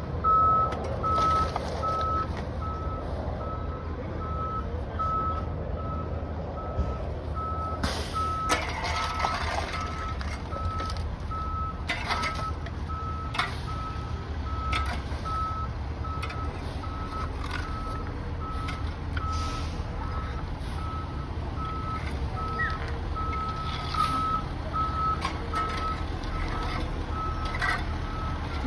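Truck reversing alarm beeping steadily, about once a second, over a diesel engine running. Several sharp bangs and clatters of debris come and go.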